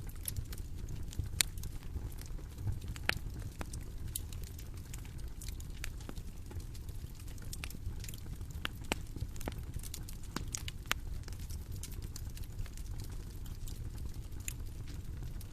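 Bonfire burning: irregular sharp crackles and pops of burning wood over a low steady rumble of the flames, with a few louder pops near the start.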